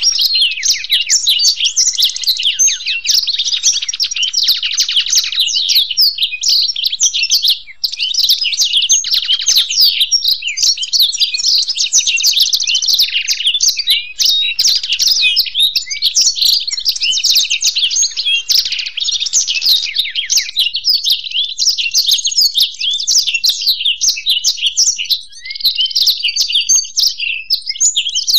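Black-throated canary and European goldfinch singing: a dense, rapid twittering song of fast, high trills and chirps that runs almost without a break, with short dips about 8, 14 and 25 seconds in.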